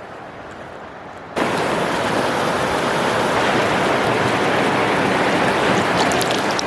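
A steady rush of water, a faint hiss at first that cuts abruptly to a loud, close rushing about a second and a half in, with a few faint clicks near the end.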